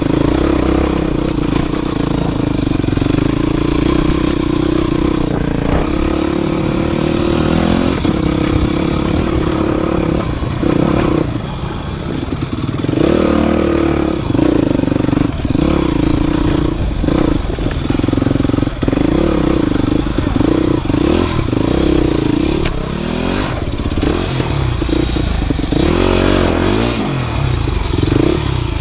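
Dirt bike engine running steadily under throttle. Its pitch dips and wavers briefly around the middle and again near the end. Clattering knocks are mixed in.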